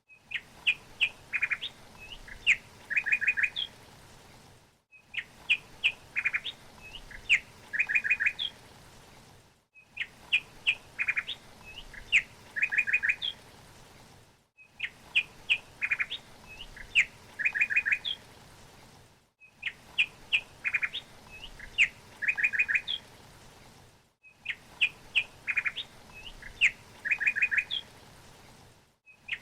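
A songbird chirping: quick runs of short chirps and a few rising notes, the same few-second phrase repeating about every five seconds with a brief silent gap between repeats, as a looped recording.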